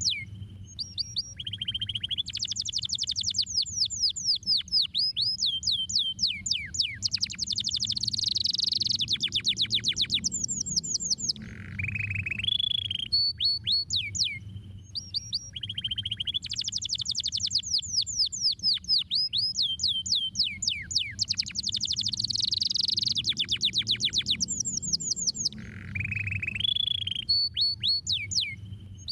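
Domestic canary singing: rapid trills of fast descending chirps and rolling phrases, high-pitched, with short pauses between phrases, over a low steady hum.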